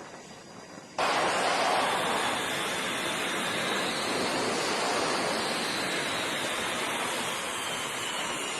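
Jet aircraft engine noise: a loud, steady rushing with a faint whine that slowly falls in pitch, cutting in abruptly about a second in.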